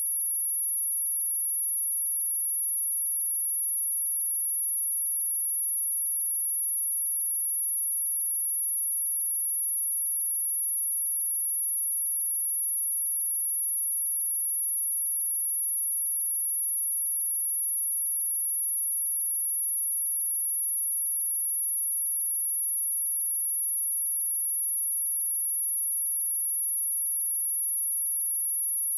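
A steady pure sine-wave test tone at 10507 Hz, a single high-pitched whistle held at a constant level without a break.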